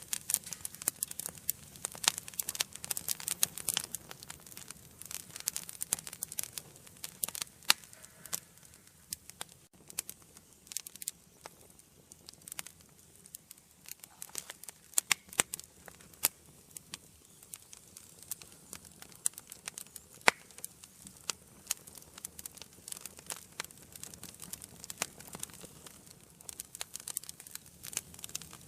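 Wood fire burning in an indoor fireplace, crackling with irregular sharp pops and snaps over a soft steady hiss of flame; the pops come thicker near the start and again near the end.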